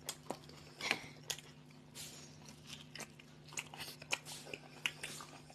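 Two people biting into and chewing large toasted sandwiches, with irregular crunches of the toasted bread and chewing sounds. A faint steady low hum runs underneath.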